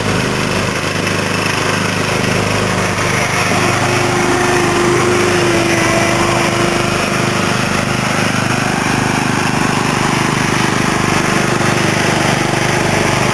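Small lawn-tractor engines running steadily, with a brief higher steady tone over them in the middle.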